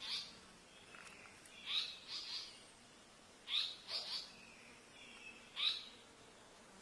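Short, sharp bird calls, about six in all and mostly in pairs a fraction of a second apart, each a quick downward sweep in pitch, from tali pocong birds at a nest with chicks being fed.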